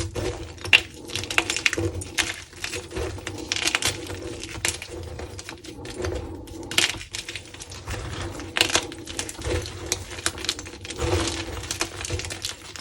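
Crunchy dyed gym chalk being crushed and crumbled: a dense, irregular run of sharp crunches and crackles, with some louder snaps.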